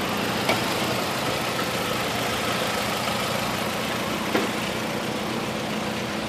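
Car engine idling steadily, with two faint clicks a few seconds apart.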